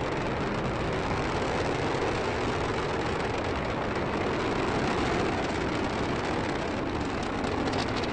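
Falcon 9 rocket's first-stage engines during ascent, heard from afar as a steady, unbroken rumble with no distinct tones.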